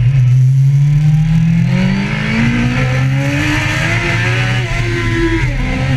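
An engine accelerating hard, its pitch climbing steadily, then dropping abruptly about five seconds in as it shifts up a gear and starts climbing again.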